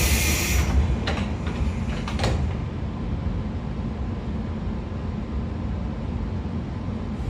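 Inside a JR 113 series electric train car: a loud hiss of air at the start, fading out under a second in, then a few short knocks about one and two seconds in, and after that the car's steady low rumble.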